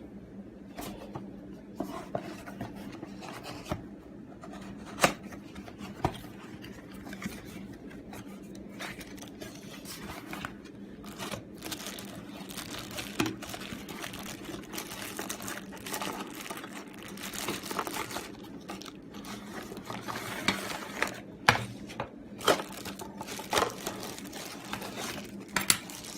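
A model-aircraft box being opened by hand: packaging crinkling and tearing, with scrapes and scattered sharp clicks that grow busier in the second half, over a low steady hum.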